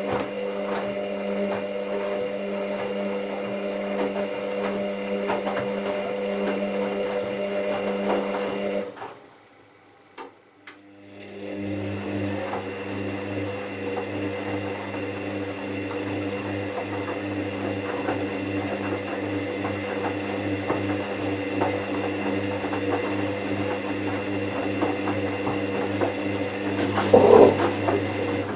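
Hoover VisionTech washing machine running with a steady motor hum, which stops about nine seconds in, leaving a short gap with two clicks, then starts again with a lower hum as the drum turns again. A louder swell comes near the end.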